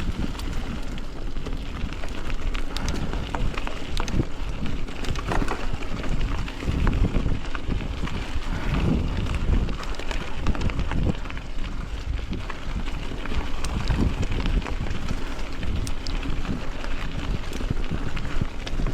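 Wind buffeting the microphone over a steady low rumble, with many scattered clicks and knocks from a bicycle moving over a rough trail.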